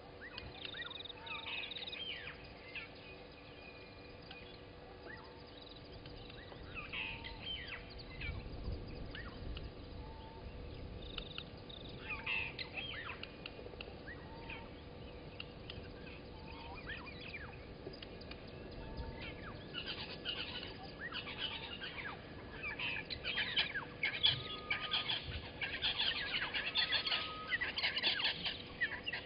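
Wild birds calling in a dawn chorus, many short chirps and whistles from several birds. The calls grow busier and louder about two-thirds of the way in.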